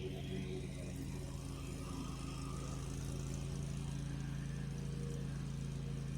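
Lawn mower engine running steadily, an even hum that holds one pitch throughout.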